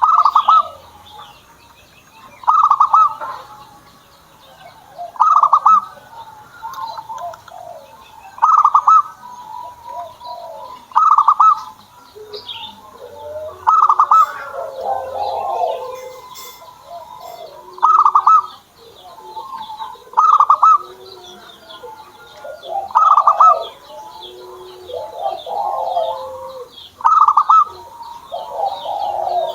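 Zebra doves (perkutut) cooing: a loud call phrase repeated about every two to three seconds, with softer, lower-pitched coos between the phrases. Faint high chirps sound in the background.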